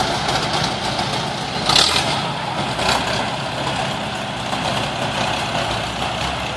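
Tractor engine running steadily, with a short, sharp burst of noise a little under two seconds in and a fainter one about a second later.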